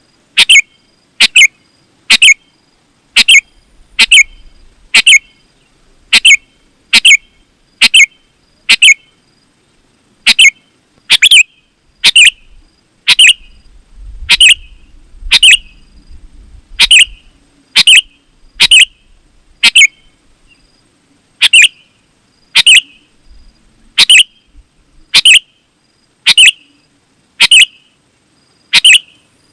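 Sooty-headed bulbul (kutilang) calling over and over, one short, sharp call about every second, with no let-up.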